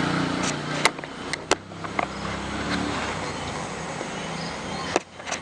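A motor vehicle engine running and fading away, with several sharp clicks or knocks, about one second in, at about one and a half and two seconds, and again near the end.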